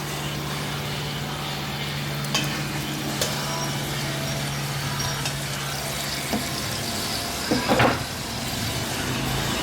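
Chicken sizzling on a cast iron griddle over a grill flame, under a steady low hum. There are a few light clinks, and a short louder sound comes near the end.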